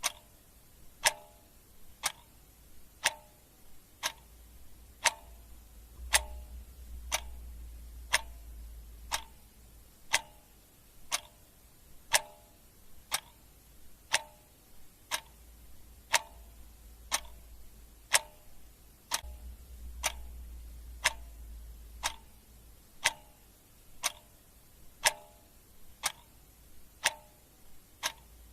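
Clock ticking steadily, about one sharp tick a second, some ticks louder than others.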